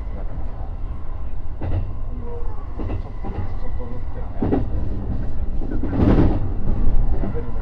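E233-3000 series electric commuter train running, heard from inside the car: a steady low rumble with clacks over rail joints every second or so, the loudest about six seconds in.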